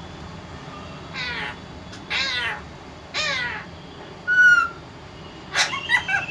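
A parrot calling: three harsh squawks about a second apart, then a short clear whistle, then a quick run of short calls near the end.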